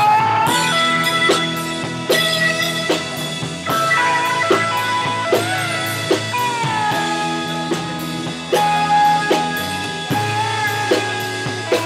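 Rock music: a guitar plays held lead notes, some bent and wavering, over a steady drum beat and bass.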